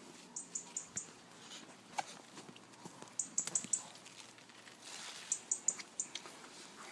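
A small bird chirping: runs of four or five quick, high pips, heard three times, with soft rustles and snaps from runner-bean plants being picked.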